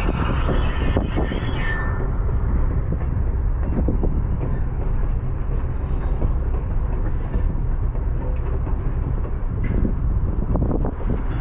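Baldwin-Westinghouse electric steeplecab locomotive moving along the track with a steady low rumble and scattered clicks. A hiss in the first two seconds stops abruptly.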